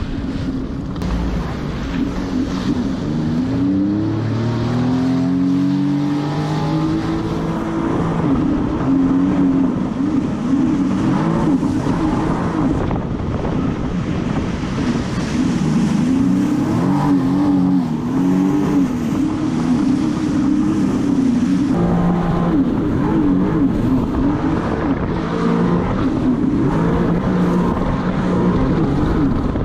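Jet ski engine running under way, rising in pitch as it accelerates a few seconds in, then wavering up and down in pitch as the throttle and load change over the water.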